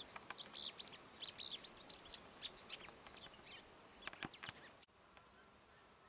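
A songbird singing a fast, varied run of high chirps and short whistled glides that thins out, with a few sharp notes about four seconds in. The song cuts off suddenly near the end.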